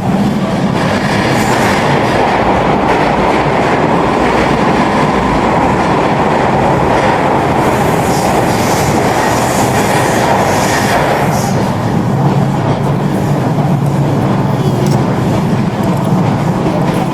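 Toy train running along its track, a steady, unbroken mechanical noise.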